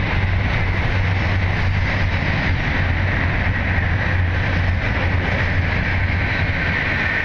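Tohoku Shinkansen train, a coupled Yamabiko and Tsubasa set, passing at speed close by. It makes a loud, steady rushing noise with a low hum underneath, easing slightly near the end as the last cars go by.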